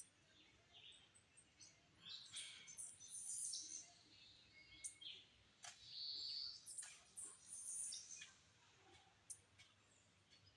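Faint outdoor bird calls: a flurry of short, high-pitched chirps and twitters, busiest from about two to eight seconds in.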